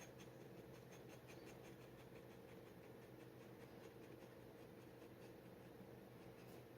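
Steel G nib dip pen scratching on paper in quick short strokes, faint, over a low steady hum.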